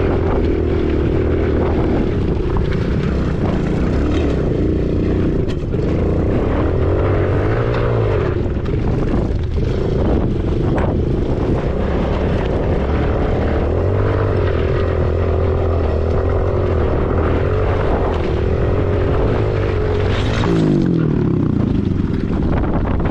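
Husqvarna 501 single-cylinder four-stroke dirt bike engine running while riding, its pitch rising and falling with the throttle and dropping away about three seconds before the end as it comes off the gas. Wind buffets the microphone throughout.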